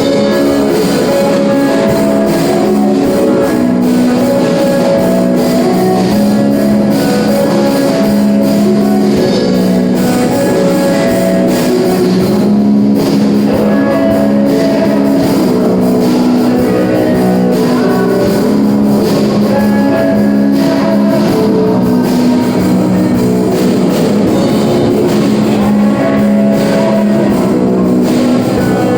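Live band playing a rock song, electric guitar over a drum kit, continuously and at a steady loud level.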